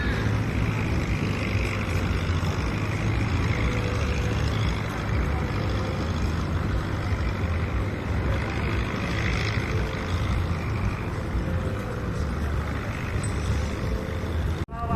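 A diesel boat engine running steadily with a deep, even drone. It breaks off abruptly near the end.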